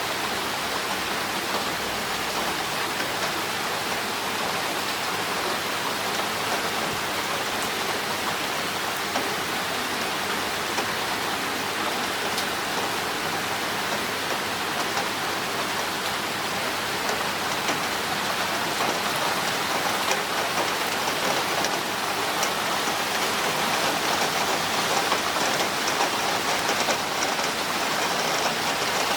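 Heavy rain with water running down a drainpipe: a steady hiss with scattered drops ticking on a surface, growing a little louder near the end.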